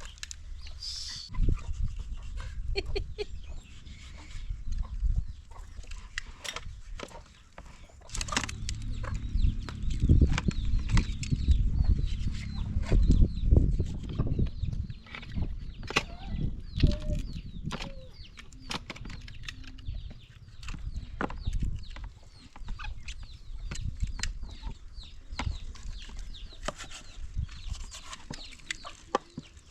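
Chickens clucking, among many scattered clicks and knocks. A low rumbling noise is loudest about ten to fifteen seconds in.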